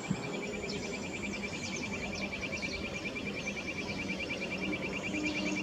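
A wild Lahori bird calling: a fast, even train of short high notes, about ten a second, growing clearer toward the end, with other birds' brief falling chirps over it.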